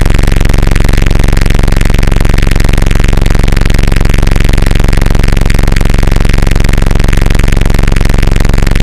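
Harsh noise music: a loud, heavily distorted, unchanging drone with a dense stack of low tones and a fast, even flutter, with no separate hammer blows.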